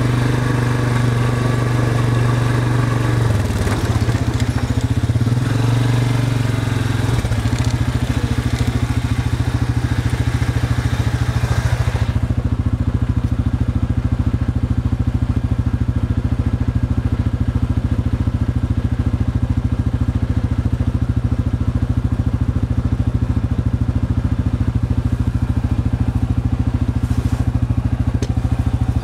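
Diesel engine of Class 09 shunting locomotive 09 027 running steadily with a deep, even throb. The low note wavers a few seconds in, and about twelve seconds in the higher hiss falls away, leaving only the low engine running.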